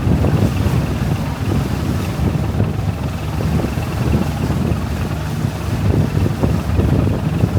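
Wind buffeting the microphone aboard a river cruise boat, over the boat's low, steady running noise, with a faint steady high tone throughout.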